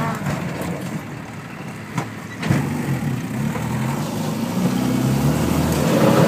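Land Rover Defender 90's diesel engine heard from inside the cab under off-road load, easing off briefly and then pulling harder and louder as it climbs a sandy slope. Two sharp knocks come about two seconds in, as the vehicle jolts over the ground.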